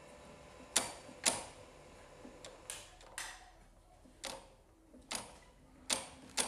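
Sharp metallic clicks, about eight spread irregularly over six seconds, from hands and tools working a motorcycle's clutch cable adjuster.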